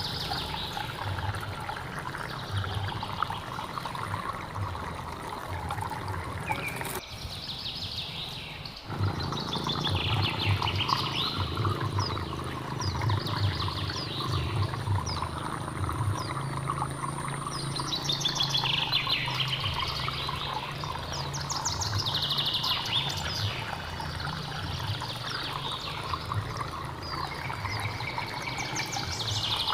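Flowing stream water with small birds chirping and twittering over it in repeated short phrases. The water sound cuts out for about two seconds near a quarter of the way in, while the birds carry on.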